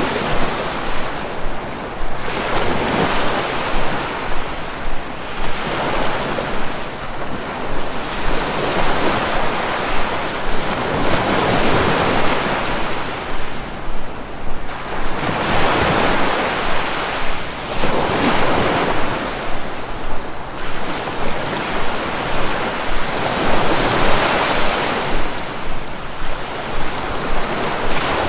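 Sea waves breaking and washing in, a rushing noise that swells and falls back every two to four seconds.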